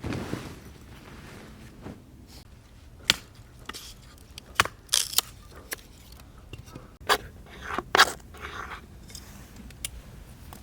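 Things being handled: several separate sharp knocks and clicks, with short scraping rustles between them.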